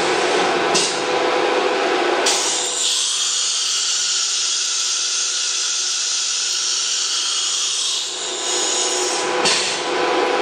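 ATC CNC router with an air-cooled HSD spindle running as a steady machine drone. From about two seconds in until about a second before the end, a loud high-pitched hiss takes over.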